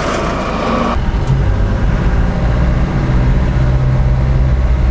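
Motor vehicle running with a steady low engine drone. About a second in, the sound changes abruptly from a hissing noise to this low drone.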